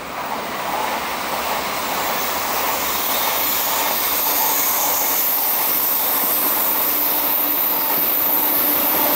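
EF66 electric locomotive hauling a container freight train, approaching and growing steadily louder.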